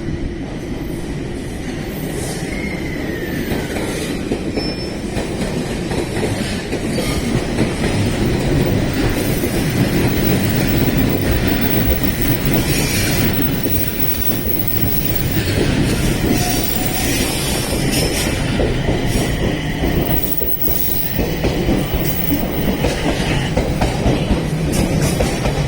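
Train running along a station platform at close range, with a steady loud rumble that builds over the first several seconds and some wheel squeal.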